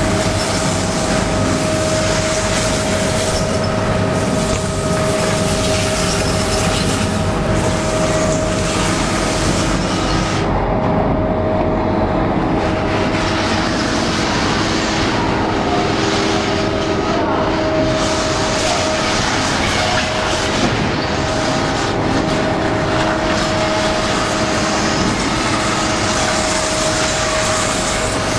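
Veneer edge (bevel) grinding machine running steadily: a continuous machine drone with a steady whine under a grinding hiss. The hiss thins for a couple of seconds about ten seconds in.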